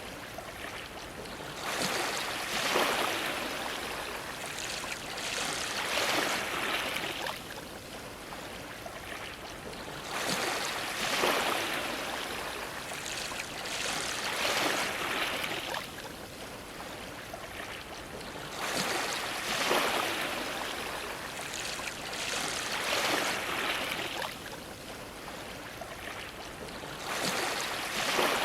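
Ocean waves washing against a dock, each wave swelling up and falling away, one every three to five seconds.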